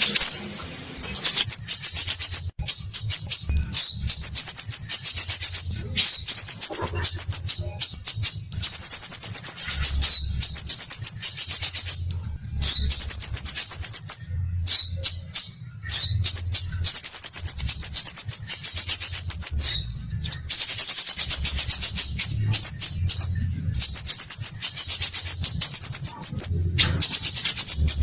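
Scarlet minivet (sepah raja) singing steadily: fast trains of high chirps, repeated in bursts of one to two seconds with short breaks between them, over a faint low hum.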